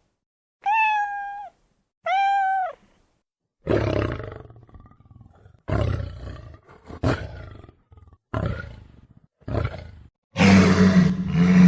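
Two meows, each about a second long and rising then falling in pitch, followed by a run of rough growls in short bouts about a second apart, ending in a louder, longer roar near the end.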